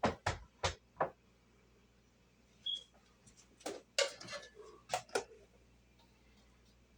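Utensils clicking and knocking against cookware as cooked chicken pieces are lifted out of the pot: four quick knocks in the first second, then a brief high ring and another cluster of knocks about four to five seconds in.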